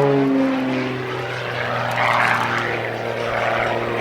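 Oracle Challenger III aerobatic biplane's piston engine and propeller droning in flight. The engine note slides lower for about the first half second, then holds steady.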